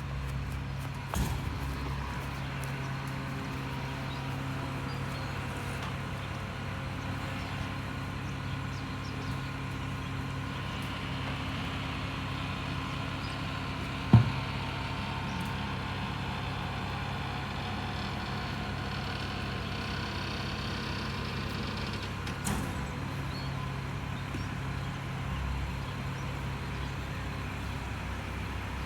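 Rear-loader garbage truck running steadily with a low engine hum. A single sharp, loud knock comes about halfway through, with lighter knocks near the start and about three quarters in.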